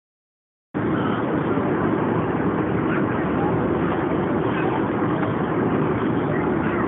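Steady roar of airliner cabin noise, engines and airflow, with faint voices under it; it starts abruptly after a moment of dead silence near the start.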